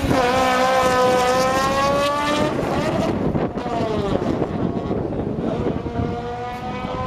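Drag car's engine at full throttle off the start line, its pitch climbing, dropping back at a gear change about two and a half seconds in, then climbing again as the car pulls away down the strip and fades.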